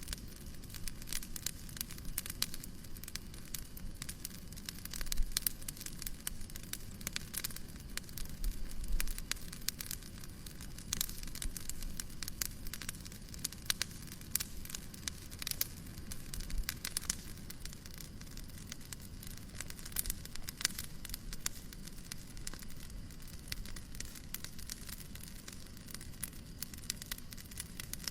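Wood fire crackling, with frequent irregular pops and snaps over a steady soft hiss.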